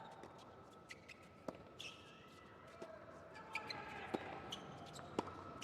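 A few sharp, separate knocks of a tennis ball bouncing on a hard court at uneven intervals, with short high squeaks like shoes on the court and a faint murmur of voices.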